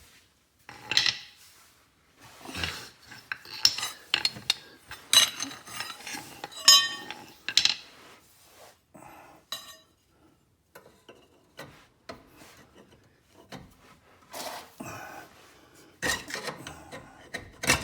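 Hand tools clinking, knocking and scraping against steel in irregular bursts, some with a short metallic ring: a chisel and hammer being worked on the axle shaft to free it from the differential.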